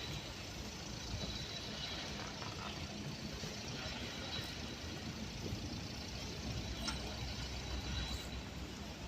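Road traffic on a wet street: a steady hiss of tyres and engines, with a lower rumble building over the last few seconds as a vehicle passes.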